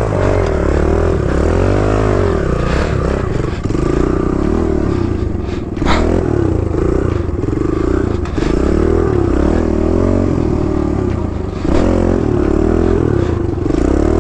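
Kawasaki KLX110's small single-cylinder four-stroke engine running under varying throttle as the bike is ridden, its pitch rising and falling, with a few sharp clattering knocks.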